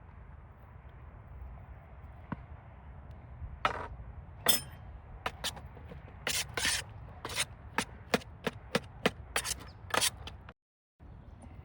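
Knife chopping on a cutting board: about fifteen sharp strikes in an uneven rhythm, starting a few seconds in, over a low steady background. The sound drops out completely for a moment near the end.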